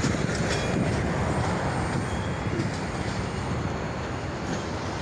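Freight train cars rolling past: a steady rumble of steel wheels on the rails, with a few faint clicks.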